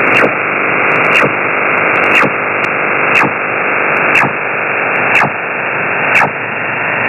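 Steady hiss from a radio receiver's demodulated audio, crossed by a short sweep about once a second: a strange repeating signal picked up on a software-defined radio.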